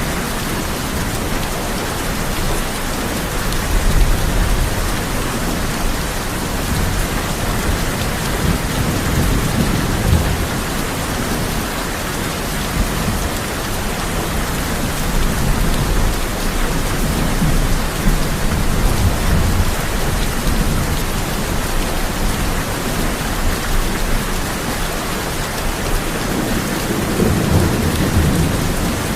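Heavy rain drumming steadily on a tin roof, with low rolls of thunder rumbling in and out several times, the last and strongest near the end.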